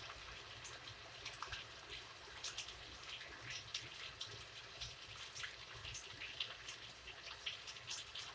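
Rain falling: many quick, irregular drops and drips tapping on a surface, over a faint steady hiss.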